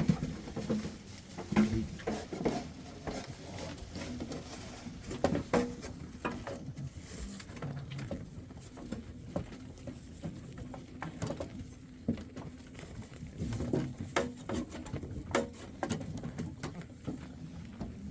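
A herd of goats milling about, their hooves pattering irregularly with scattered small knocks.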